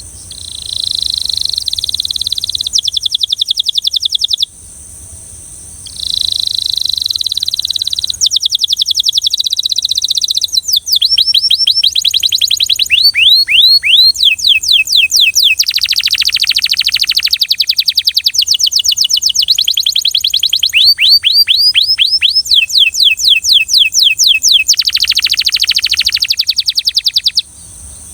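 Belgian canary singing a long song of held notes, fast trills and rapidly repeated sweeping notes, with a short break about four seconds in.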